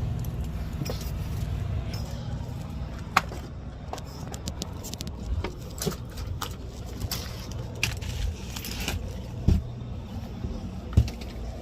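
Semi truck's diesel engine idling in a steady low rumble, with scattered knocks, scrapes and rattles as someone climbs up into the cab. Sharper thumps come about three seconds in and twice near the end.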